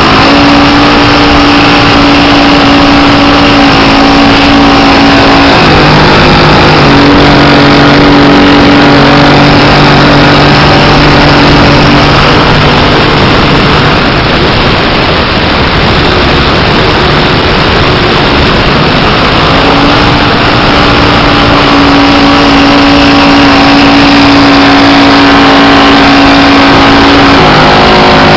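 The motor and propeller of a 1/5-scale Piper Cub RC model in flight, heard from a camera on the wing strut over heavy wind rush on the microphone. The motor's pitch steps down and back up several times as the throttle is worked, and for a stretch in the middle it is mostly buried in the wind noise.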